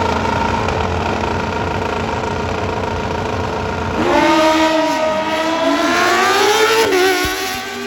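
Drag racing motorcycle engine held at steady high revs on the start line, then launching about four seconds in, its pitch climbing as it accelerates hard down the strip. Near the end the note drops sharply at a gear change and then fades as the bike pulls away.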